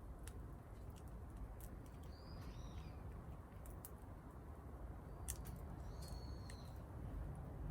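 Outdoor ambience: a bird gives short chirping calls twice, about two seconds in and again near six seconds, over scattered sharp crackles of wood burning in a fire and a steady low rumble.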